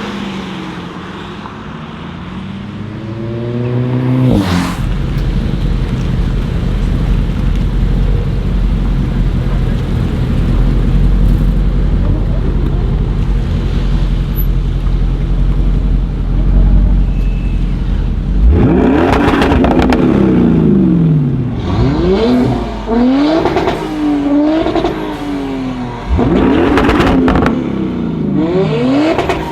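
Audi RS6 C7 Performance's twin-turbo V8 through an Akrapovic exhaust. For the first few seconds the engine pitch climbs, then there is a sharp crack. A steady low rumble follows for about fourteen seconds, then a string of quick free revs rises and falls over the last ten seconds.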